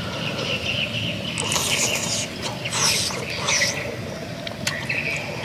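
Close-up eating sounds of grilled snail meat being chewed and slurped, with three short, loud wet bursts between about one and a half and four seconds in.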